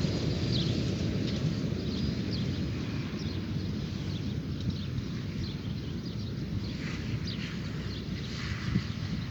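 Dawn outdoor ambience: a steady low rumble with birds chirping now and then, short high falling notes.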